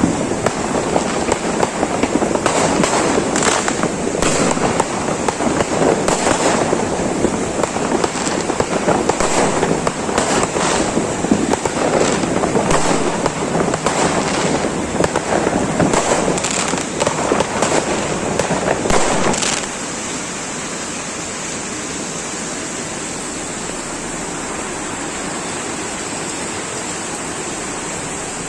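Heavy rain pouring down, a dense crackling patter with many sharper cracks mixed in. About two-thirds of the way through it changes abruptly to an even, steady rushing of water.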